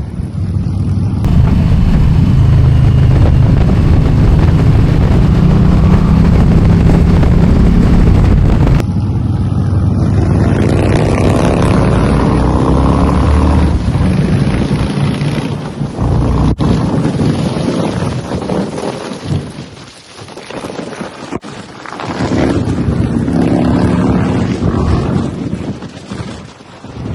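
Motorcycle engine running under way, its pitch rising and falling with wind buffeting the microphone. The sound changes abruptly twice in the first nine seconds, fades briefly a little past the middle, then builds again.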